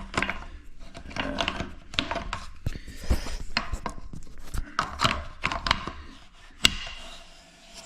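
Flush-valve nut wrench turning the big locknut off a toilet tank's 3-inch flush valve, with irregular scraping, creaking and clicking as the nut works loose, and one sharp knock about two-thirds of the way through.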